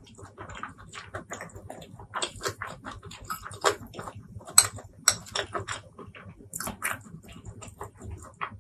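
Close-miked chewing of a mouthful of food with lips closed: an irregular run of short wet smacks and clicks, a few louder ones around the middle.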